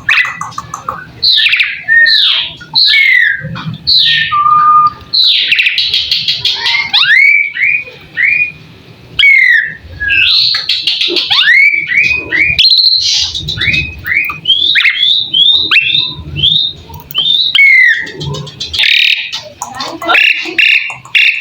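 Javan pied starling (jalak suren) singing loudly and continuously: a rapid run of quick sliding whistles, many dropping in pitch, mixed with harsh, buzzy chattering notes.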